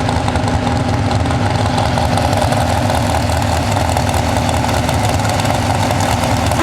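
4x4 pulling truck's engine idling steadily and loud, with a deep rumble and no revving.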